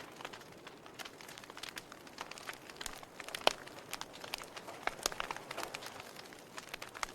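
Wood fire crackling: irregular sharp pops and snaps over a steady hiss, one louder pop about three and a half seconds in.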